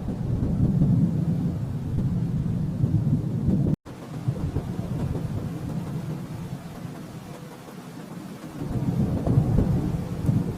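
Distant thunder rolling in a long, low rumble that swells up at the start. It drops out for an instant just before four seconds in, then carries on more softly and swells again near the end.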